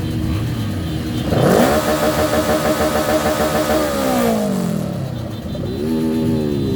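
Motorcycle engine revving hard about a second and a half in, held at high revs with a loud rush for a couple of seconds, then dropping back. A second, shorter rev rises and falls near the end.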